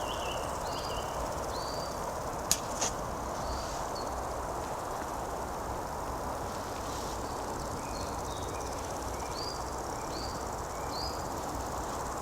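Summer meadow ambience: a steady low rush under a run of short, repeated high chirps, with one sharp click about two and a half seconds in.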